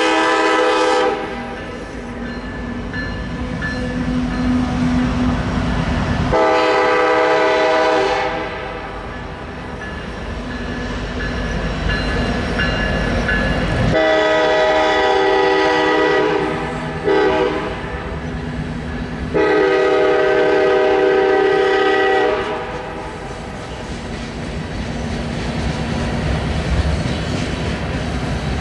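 A freight locomotive's air horn sounds a chord of several tones. The last second of one blast, then two long blasts, a very short toot and a final long blast, the pattern of a grade-crossing signal. Between the blasts the diesel locomotives and a loaded coal train rumble steadily on the rails.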